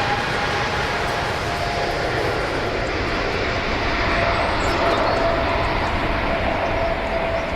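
Emirates Airbus A380's four jet engines running loud and steady, a constant rushing noise with a faint high whine held through it.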